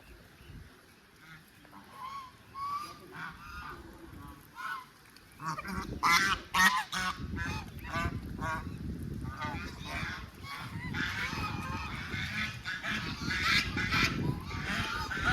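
A flock of waterfowl honking and calling in short, repeated calls, a few at a time at first and then many overlapping and louder from about six seconds in, over a low rumbling noise.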